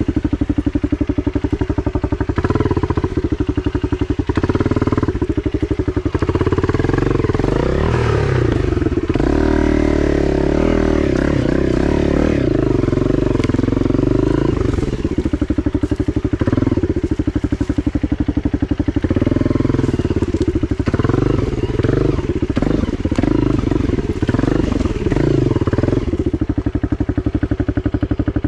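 Honda CRF250 dirt bike's single-cylinder four-stroke engine running on a trail, the revs rising and falling with the throttle.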